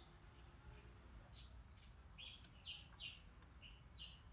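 Red-whiskered bulbul singing faintly: a string of short, clear notes, most of them bunched together in the second half.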